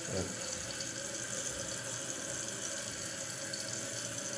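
Steady rush of water running in an open 2010 Kohler Wellworth toilet tank.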